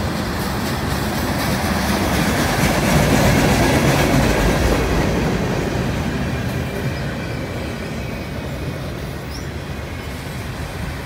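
Freight train's tank cars and autorack cars rolling past: a steady rumble of steel wheels on rail, loudest about three to five seconds in and then easing off.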